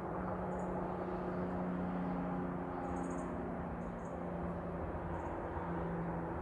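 Several short, very high-pitched bird chirps, a few seconds apart, over a steady low hum of distant traffic or machinery.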